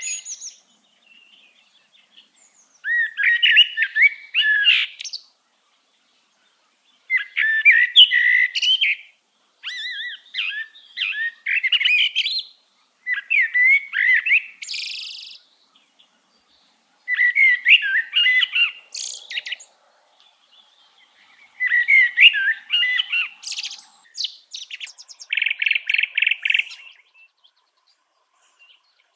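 A songbird singing short, varied warbling phrases of two to three seconds each, repeated about every four seconds with silent pauses between them. Near the end comes a rapid, even trill.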